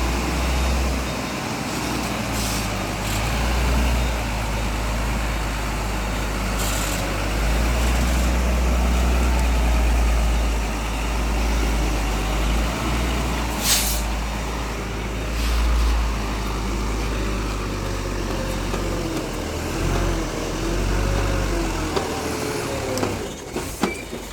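Heavy truck's diesel engine running with a steady deep rumble, broken by short air-brake hisses, the loudest about halfway through.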